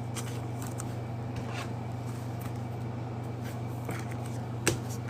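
Trading cards and pack wrappers being handled: faint clicks and soft rustles, with a sharper tap about four and a half seconds in, over a steady low electrical hum.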